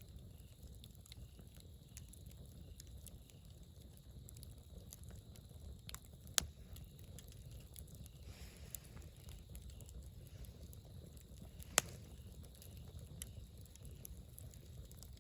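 Campfire burning with a steady low rumble and small scattered crackles, and two louder single pops from the burning wood, one about a third of the way in and one near the end.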